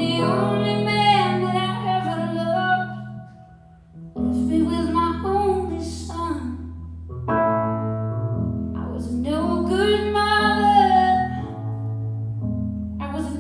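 A woman singing a slow, sustained melody over held piano chords, with a short pause between phrases about three and a half seconds in.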